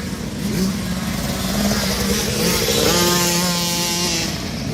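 Motocross dirt bike engines running on the track while warming up, with one bike holding a steady high engine note from about three seconds in.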